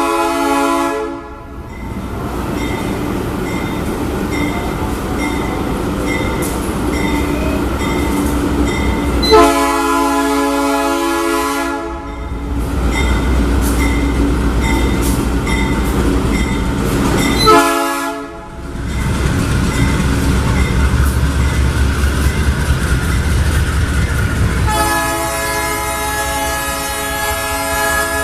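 Diesel freight locomotive's multi-chime air horn sounding a pattern of blasts: one ending about a second in, a long one, a short one and another long one near the end. Between them the locomotive's engine and the train run with a steady low rumble.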